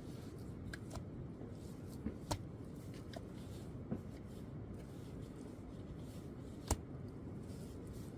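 A few sharp knocks and clicks, scattered over about seven seconds, with the loudest about two-thirds of the way in, over a low steady background noise.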